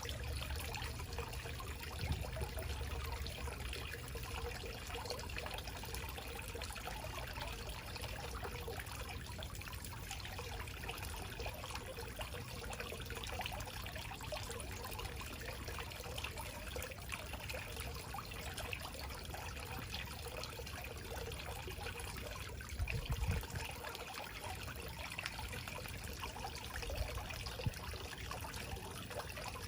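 Small backyard waterfall trickling and splashing steadily. A brief low rumble comes about three-quarters of the way through.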